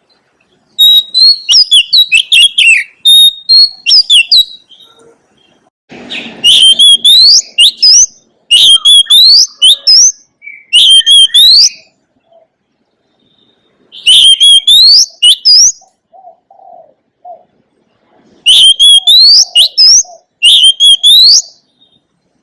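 Oriental magpie-robin singing: loud, varied whistled phrases in repeated bursts of one to two seconds, with short pauses between them.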